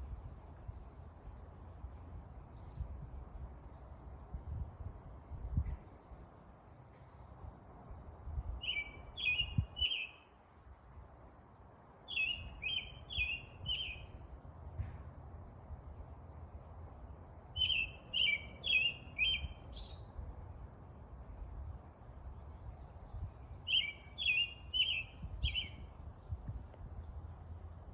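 Songbirds chirping: thin, very high chips repeat about once a second, and four times a louder phrase of three or four quick chirps cuts in, every five or six seconds. A low rumble runs underneath throughout.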